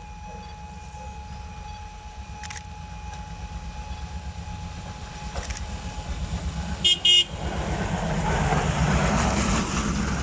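A train approaching, its low rumble growing louder, sounds two short, high horn blasts in quick succession about seven seconds in, followed by a louder rush of noise as it draws level.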